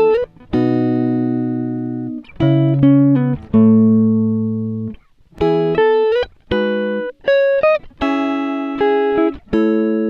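Background music of plucked guitar chords, each struck and left to ring and fade before the next, about one every second or so.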